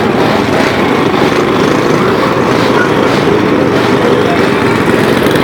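Motorcycle engines running, a loud, steady engine sound with no pause.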